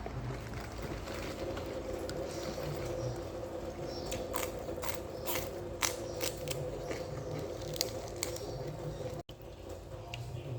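Close-up eating sounds of a raw shrimp salad: irregular wet squelches and crunchy clicks of biting and chewing, over a steady low hum. The sound drops out briefly about nine seconds in.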